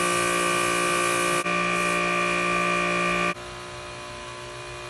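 Steady held chords of electronic tones that switch abruptly to a new chord twice, the last one quieter.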